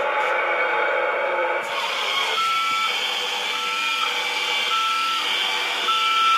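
Toy monster truck's electric motor whirring steadily. From about two seconds in, four even beeps at one pitch, about a second apart, sound like a reversing alarm.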